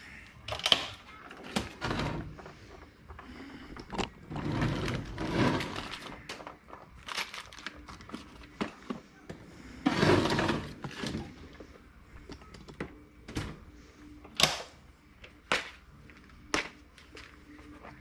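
Camera being picked up and moved and a drawer of spare O-rings being opened and searched: a string of separate knocks and clicks, with two longer scraping, rustling stretches, the louder one about ten seconds in.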